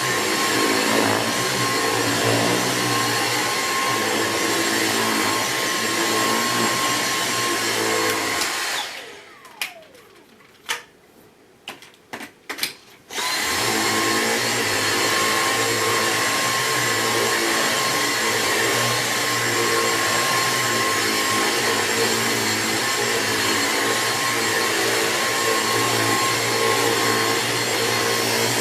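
Dyson V6 Absolute cordless vacuum running steadily while vacuuming a mattress. A little under a third of the way in, the motor winds down in falling pitch and stops. A few sharp clicks follow during a pause of several seconds, then the motor starts up again and runs steadily.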